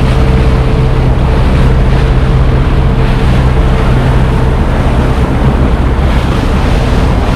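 Motorboat under way, its engine running with a steady drone, with water rushing past the hull and wind buffeting the microphone.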